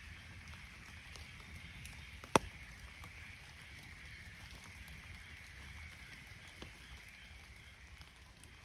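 Faint steady outdoor ambience, broken by one sharp tap about two and a half seconds in and a much fainter tap about four seconds later.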